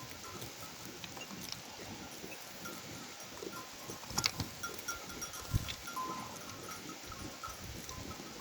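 A flock of sheep and goats with faint bells clinking now and then, and a few sharp clicks about four seconds in.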